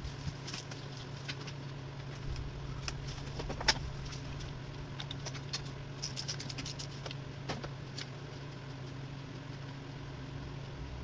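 Light metallic clinks and taps of tools and small parts over a steady low hum. The sharpest clink comes about a third of the way in and a quick run of clinks about two-thirds in.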